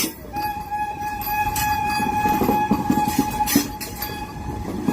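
Vande Bharat Express trainset being towed by a locomotive, rolling along the track with irregular wheel-and-rail clatter and a few sharp knocks. A steady high-pitched whine runs under it and stops about four seconds in.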